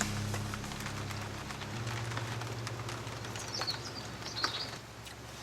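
Light rain pattering, with many small drop ticks, over a steady low hum. Two short bird calls come about three and a half and four and a half seconds in.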